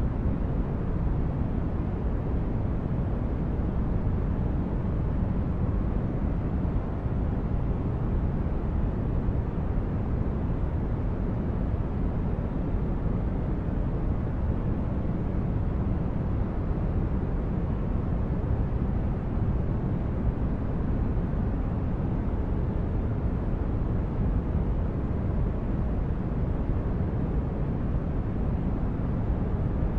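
Steady, unchanging noise, deep and full in the bass with little hiss in the highs, played as a continuous sleep-aid noise track.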